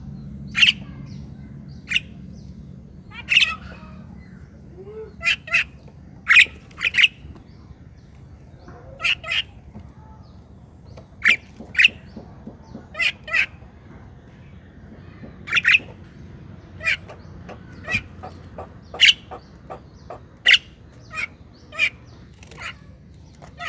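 Birds calling: short calls repeated every second or so, often two in quick succession.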